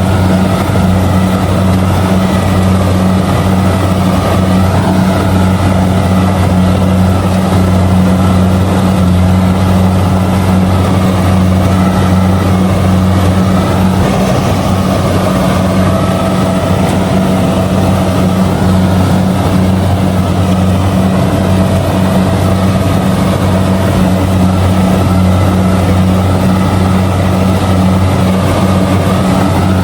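Kubota DC70G combine harvester's diesel engine running steadily while it harvests rice, a loud, even drone with no change in pitch.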